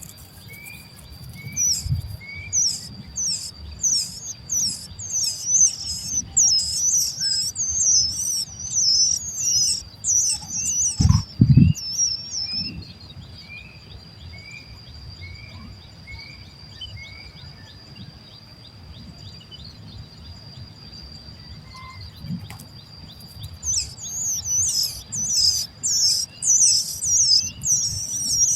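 Baby birds begging for food with rapid, very high chirping in two long bouts, which stops for about ten seconds midway. A softer rising chirp repeats about once a second over a steady high tone, and a couple of low thumps come about a third of the way in.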